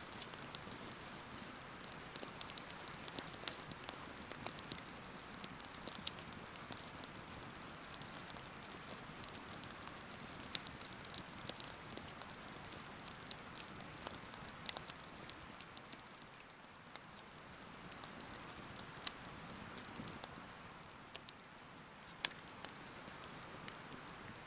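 Wood campfire crackling, with irregular sharp pops and snaps over a steady rushing hiss like a nearby mountain stream.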